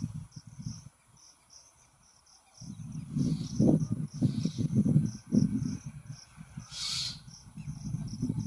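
Crickets chirping steadily in short, evenly spaced pulses, over louder low rumbling bursts that come and go. There is a brief hiss at about seven seconds.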